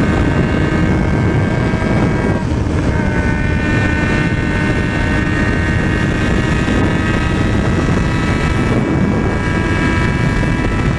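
Yamaha XJ6's 600 cc inline-four engine under hard acceleration at highway speed, mixed with heavy wind rush over the microphone. About two seconds in the engine note drops for an upshift, then climbs steadily again.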